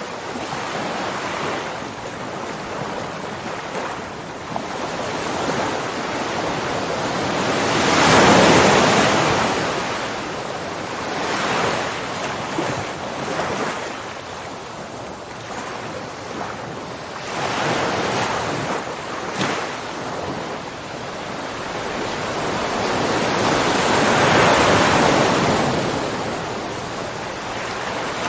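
Ocean waves breaking and washing on a shore, a continuous rush that swells and ebbs, with louder breakers about 8 seconds in and again around 25 seconds.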